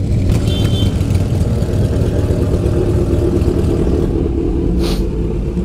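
Motorcycle engines running at idle in a steady, dense rumble, with a short sharp hiss about five seconds in.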